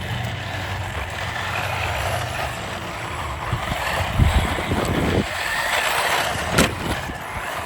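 Radio-controlled cars being driven, their electric motors and tyres making a steady noisy whir with a low hum early on. A few thumps come around the middle, and a sharp crack about two-thirds through.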